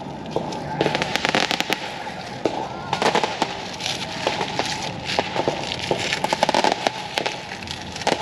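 Fireworks going off: rapid sharp pops and crackling, coming in dense clusters from about a second in and heaviest through the middle.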